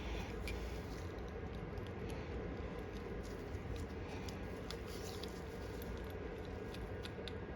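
Faint, scattered clicks and light taps of small carburetor parts being handled as the needle is fitted back, over a steady low background hum.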